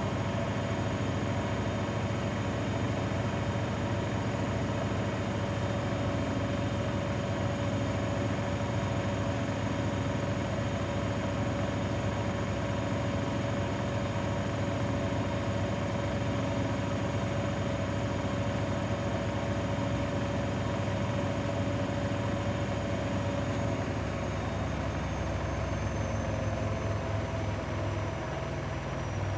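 Grundig washing machine in its spin, a steady motor whine over the hum of the turning drum. About 24 seconds in, the whine starts to fall in pitch as the drum begins to slow.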